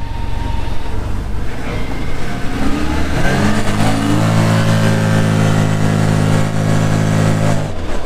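2023 CFMoto UForce 1000 side-by-side's V-twin engine under hard acceleration on its stock CVT clutch, with road and wind noise. About three seconds in the revs climb quickly, then hold at one steady high pitch, and drop off abruptly near the end as the throttle is let off.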